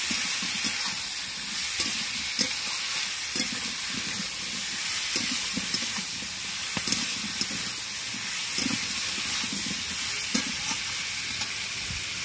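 Potatoes, capsicum and onion frying in hot oil in a metal kadai, sizzling steadily, while a flat metal spatula stirs them with frequent scrapes and clinks against the pan.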